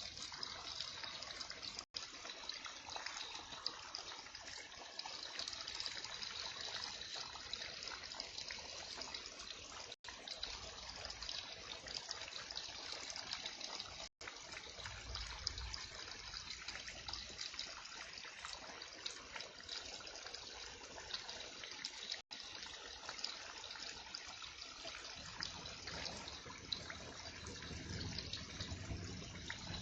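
Heavy rain falling steadily, a dense even patter of drops. A few brief dropouts to silence interrupt it.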